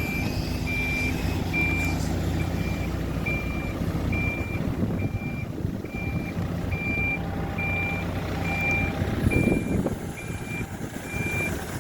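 HİDROMEK backhoe loader's reversing alarm beeping steadily, a bit more than once a second, over its diesel engine running. There is a brief louder noise about nine and a half seconds in.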